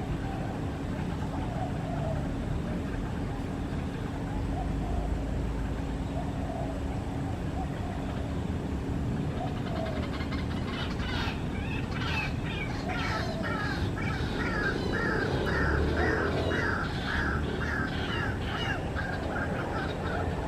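White-breasted waterhen calling. Faint scattered calls come first, then from about halfway a long run of the same note repeated about one and a half times a second, over a steady low rumble.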